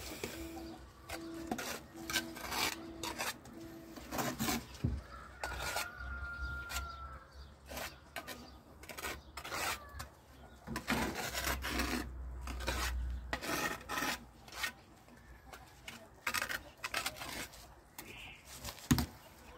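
Irregular scraping and rubbing of tools and materials in masonry work, with scattered knocks.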